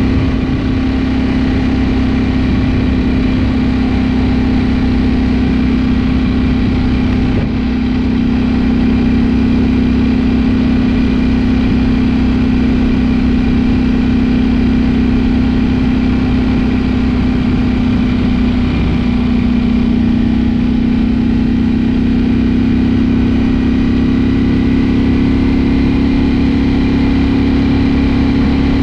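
Ducati Streetfighter V4 S's 1103 cc V4 engine running steadily under way, with wind and road rush. There is a brief dip in the sound about seven seconds in, and the engine note steps slightly higher about two-thirds of the way through.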